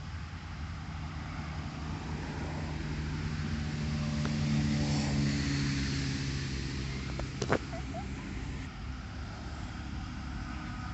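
A steady motor-like hum that builds to a peak around the middle and then eases off, with one sharp knock about two-thirds of the way through.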